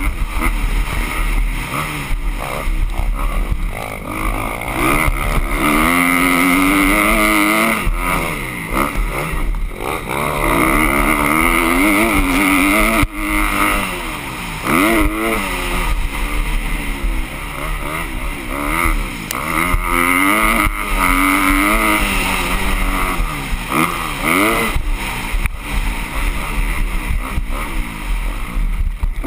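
Motocross bike engines revving, their pitch rising and falling again and again.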